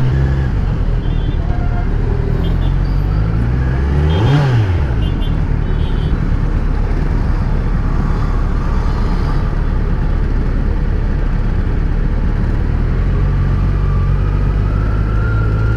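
Kawasaki Z900's inline-four engine running steadily under way, with a steady rush of wind and road noise. About four seconds in, the engine pitch briefly rises and falls.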